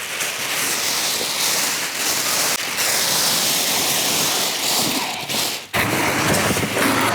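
Plastic shipping wrap being pulled and torn off a new scooter, a continuous crinkling rustle with a short break about three-quarters of the way in.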